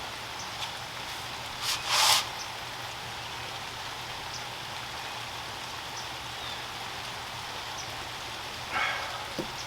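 Steady rain falling. A brief, louder rustling noise comes about two seconds in, and another short noise near the end.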